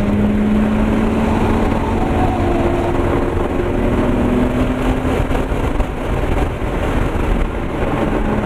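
2001 BMW 325i's 2.5-litre straight-six engine heard from inside the cabin at track speed, its pitch climbing slowly for the first few seconds. Around the middle the engine note fades into steady road and wind noise, then comes back near the end.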